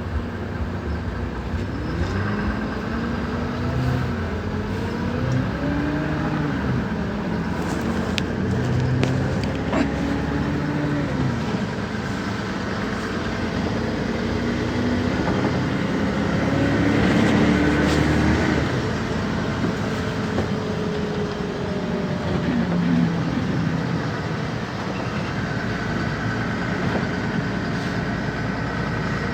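City bus running, heard from inside the passenger cabin: a steady drone with an engine and drivetrain note that rises and falls several times as the bus speeds up and slows in traffic.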